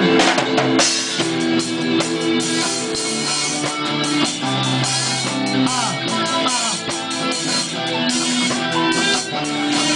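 Student rock band playing live: an instrumental break between sung verses, with guitars over a drum kit keeping a steady beat.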